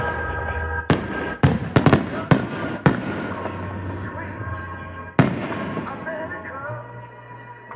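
Fireworks exploding: a quick run of sharp bangs in the first three seconds, then a single bang about five seconds in, each trailing off in a rumble, over steady background tones.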